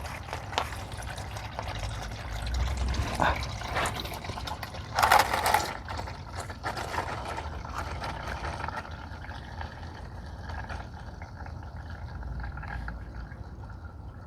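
Used engine oil pouring out of a 2014 Ford Explorer Sport's oil pan drain hole in a steady stream and splashing into a drain pan, with a brief louder noise about five seconds in.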